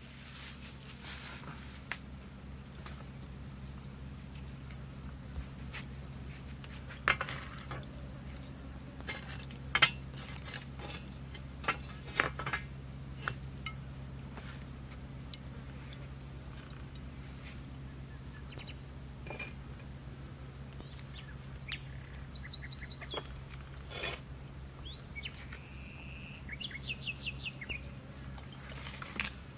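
Forest ambience: an insect calling in a steady, high, pulsed chirp about once a second, with scattered small clicks and knocks. Birds chirp briefly in the last third.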